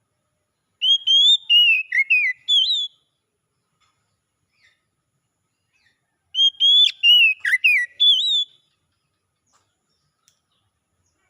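Oriental magpie-robin singing: two short phrases of clear, whistled notes that slide up and down, each about two seconds long, with a few seconds of silence between them.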